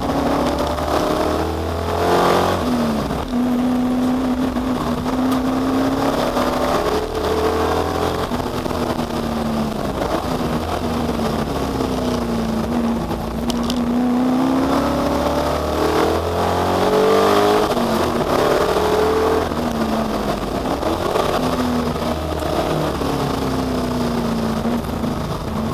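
Ford Capri V8 (Perana) race car engine, its pitch climbing under acceleration and dropping back again and again as it goes through gear changes and corners, with steady stretches between.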